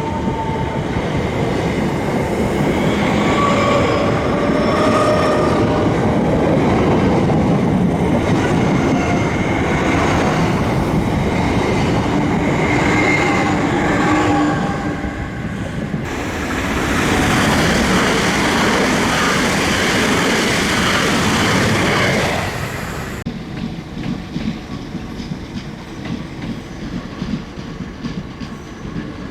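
Passenger train passing close by, its wheels clattering over the rail joints and faint steady whining tones over the noise. The noise falls away suddenly about three-quarters of the way through, leaving a quieter rumble.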